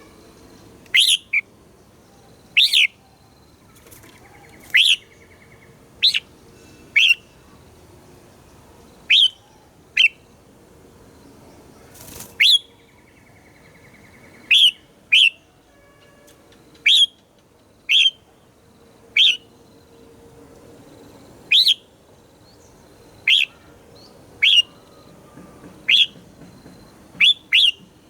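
Red-whiskered bulbul calling: short, sharp whistled notes that drop in pitch, one or two at a time every second or two. A faint buzzy trill comes in twice.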